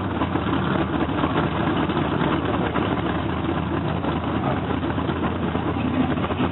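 Monster truck engine running steadily at a low, even level, with no revving.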